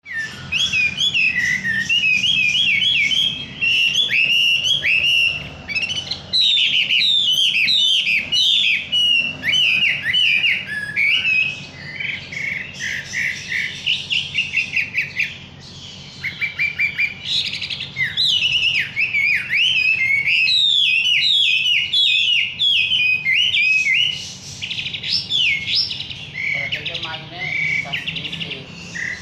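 A wambi songbird in full, vigorous song: rapid strings of slurred chirps and whistled notes, repeated in quick bursts with only brief pauses. A faint steady low hum lies underneath.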